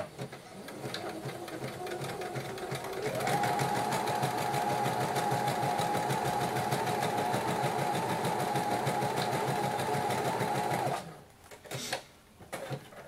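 Electric sewing machine stitching a zigzag, starting slowly and speeding up to a steady whine about three seconds in, then stopping about eleven seconds in. A few separate clicks follow.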